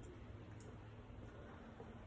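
Near silence: faint steady low room hum with a couple of faint small ticks.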